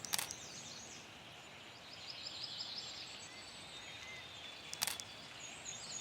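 Garden songbirds singing, with series of quick high repeated notes, over outdoor ambience. A camera shutter clicks briefly twice, just after the start and near the end.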